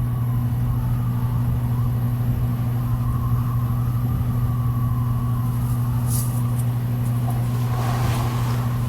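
A vehicle rumbling steadily with a low, even hum, without music or voices.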